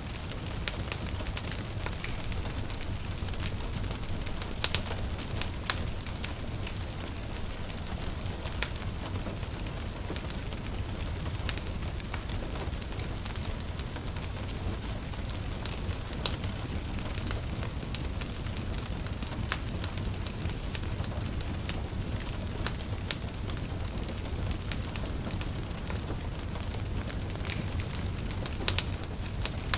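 Wood fire crackling, with irregular sharp pops over a steady low rumble, mixed with gentle rain falling.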